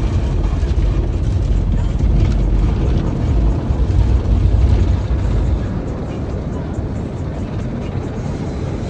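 Steady low rumble of an automatic car wash heard from inside the car, easing off a little about two-thirds of the way through.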